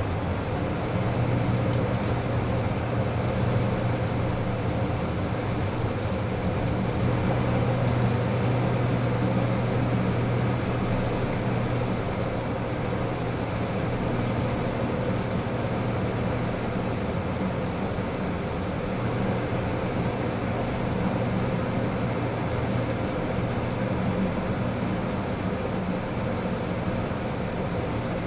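Steady cockpit noise of a Beechcraft Premier I jet in flight: airflow and the drone of its Williams FJ44 turbofan engines, with a low hum that swells and eases slightly.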